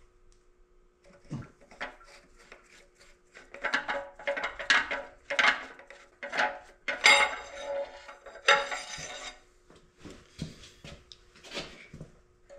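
Steel hammer blows on a bearing driver, knocking old cam bearings out of a cast-iron CAT D4D engine block. Irregular ringing metal strikes come in a cluster through the middle, with a faint steady hum underneath.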